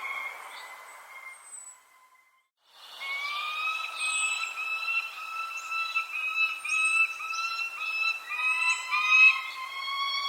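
Birds calling: a run of short pitched calls with strong overtones, over short high falling chirps. The sound drops out to near silence for under a second about two seconds in.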